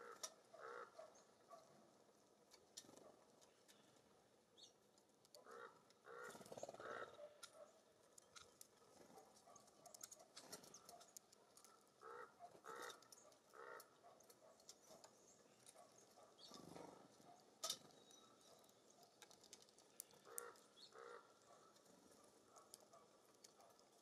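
Faint short bird calls repeating in clusters of two or three every few seconds, with scattered light ticks and taps between them.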